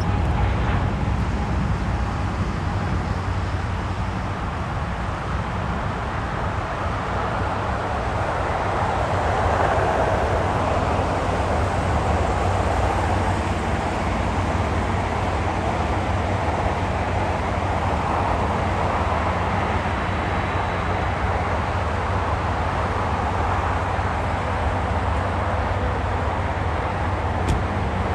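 Jet engines of a cargo airliner arriving at the airport: a steady roar and hiss that swells a little about a third of the way in.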